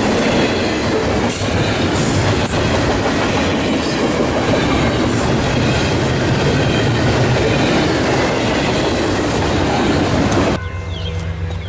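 A train rolling past close by, its wheels clattering over the rails in a loud, steady rush. About ten and a half seconds in the noise cuts off suddenly, leaving a quieter low hum.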